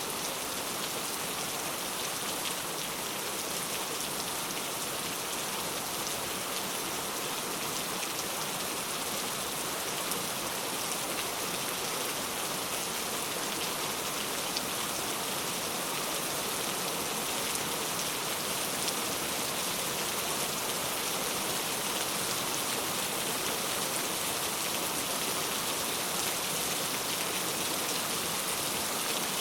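Steady rain falling and pattering on a surface, an even hiss with fine crackle of drops that holds level throughout.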